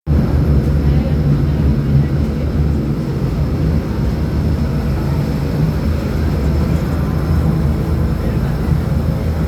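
Steady low rumble of the Tokyo DisneySea Electric Railway's electric train running, heard from on board.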